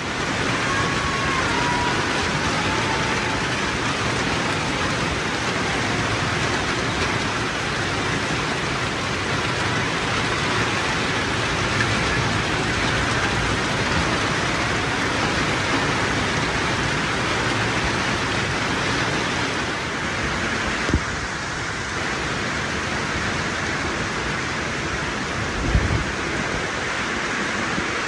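Steady, heavy rain falling, an even hiss with no let-up. A couple of brief low thumps come through it about two-thirds of the way in and near the end.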